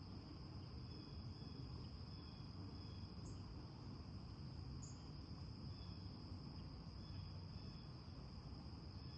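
Crickets chirring in one steady, unbroken high trill, faint, over a low background hum.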